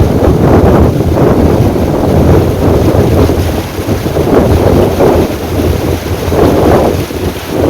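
Loud rushing water of a river swollen by rain, surging and easing every second or two, with wind buffeting the microphone.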